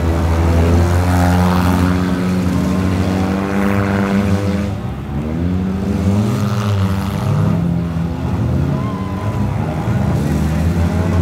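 Engines of several old derby cars racing in a figure-eight, revving up and down in pitch as they accelerate and slow, several at once.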